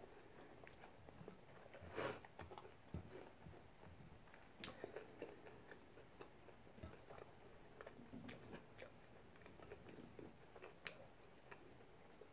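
Faint chewing of a mouthful of taco, with soft mouth clicks scattered through, the clearest about two seconds in.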